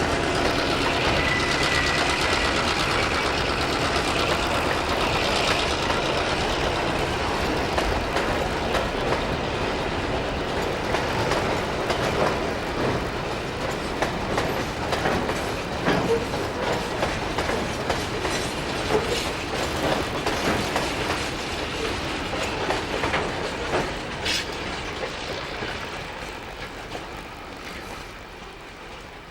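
A diesel-hauled freight trip train rolling past, its wagon wheels clacking over the rail joints, the sound fading away near the end.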